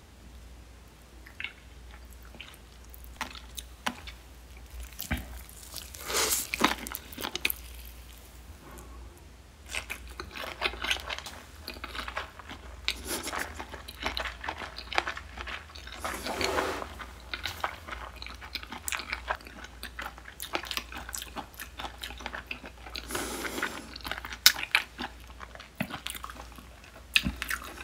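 Close-miked chewing and biting of a sea squirt rice ball wrapped in seaweed: a steady run of small mouth clicks and crunches, louder chews coming a few times.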